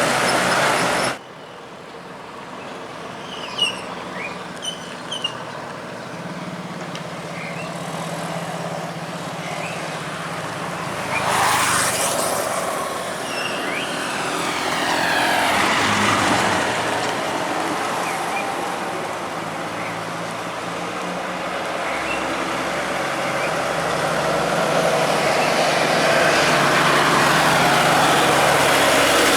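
Heavy truck's diesel engine running as the truck drives by, with the sound cutting abruptly about a second in, a rising sweep about eleven seconds in, and a loud pass-by around sixteen seconds.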